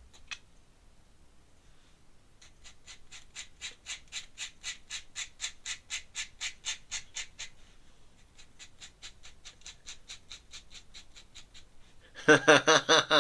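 Pen nib scratching on paper in quick even hatching strokes, about five a second, fainter in the second half. A man's voice starts near the end.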